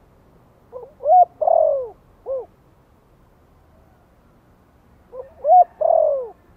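Spotted dove cooing: two phrases about four seconds apart, each a short note, a rising note, a long falling note and a short closing note.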